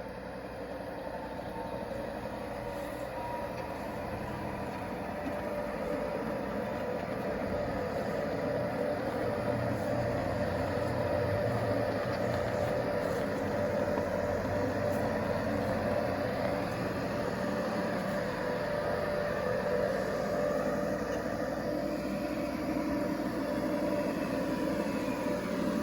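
G scale model train running at a steady speed, its electric motor whining at a constant pitch, growing gradually louder as it comes closer.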